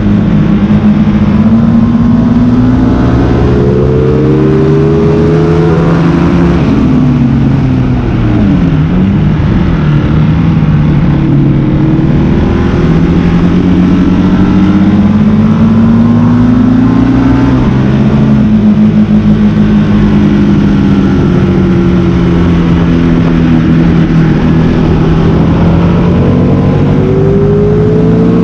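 Motorcycle engine being ridden hard on a race track, pitch climbing through the gears and falling away sharply under braking and downshifts, then climbing again. The biggest drop is about six to eight seconds in, another around seventeen seconds in.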